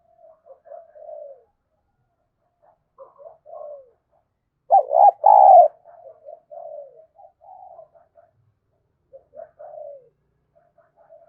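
Spotted dove cooing in short repeated phrases, with two much louder coos about five seconds in.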